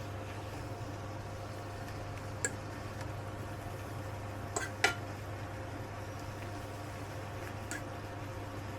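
Kitchenware clinking: four short sharp clinks of utensils and dishes, two close together about halfway through being the loudest, over a steady low hum.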